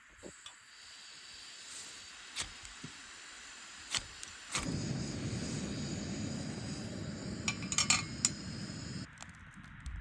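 Metal utensils clinking against a camp pot and dishes, in scattered light clicks. About halfway through, a steady low rushing noise starts and runs until near the end.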